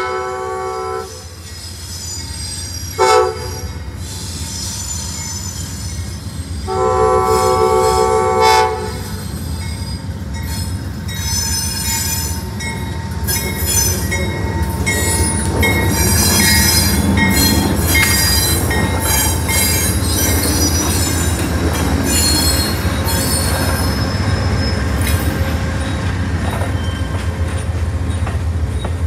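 Amtrak GE Genesis P42DC diesel locomotive sounding its horn for the crossing: a blast that ends about a second in, a short blast about three seconds in, and a long blast about seven seconds in. The passenger train then passes close by with a steady rumble and scattered high-pitched wheel squeals.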